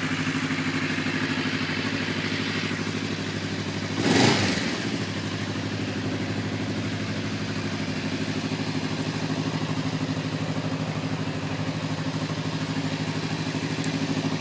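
Kawasaki Vulcan 500's carbureted 500cc inline twin idling steadily. About four seconds in, a brief loud burst rises over it and falls away quickly.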